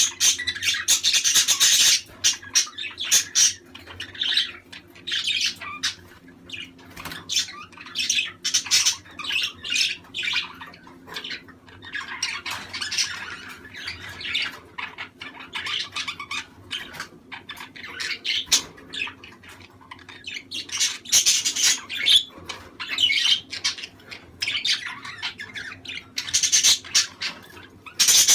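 A group of budgerigars chattering and squawking, fast warbling calls with louder bursts of chatter at the start, about twelve seconds in, around twenty-one seconds and near the end. This is budgie chatter of the kind played to pairs to stimulate breeding. A faint steady low hum lies underneath.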